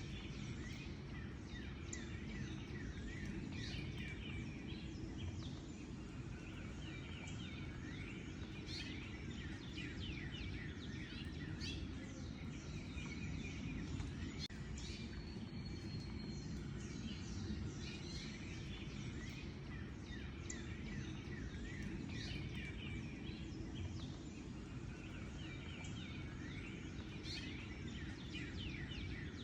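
Several birds chirping and singing, with many short calls and quick falling notes overlapping throughout, over a steady low background rumble.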